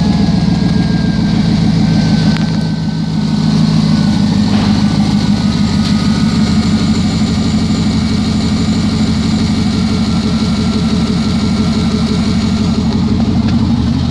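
2009 Chevrolet Avalanche's 5.3-liter V8 running steadily at low speed, loud because the exhaust is cut off after the catalytic converters.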